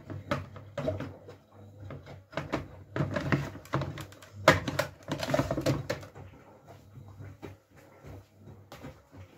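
Miele W433S front-loading washing machine turning its drum in a wash cycle, loaded with plush toys and pillows: a steady low motor hum under irregular knocks and clatter from the tumbling load.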